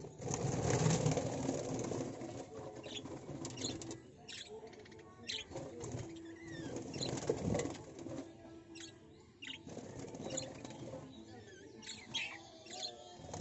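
Birds calling with short chirps scattered through, over a rustling noise that is loudest in the first few seconds.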